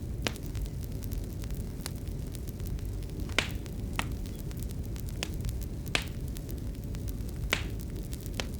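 Wood fire crackling in a fireplace: a steady low rumble with irregular sharp pops and snaps, a few louder ones about three and a half, six and seven and a half seconds in.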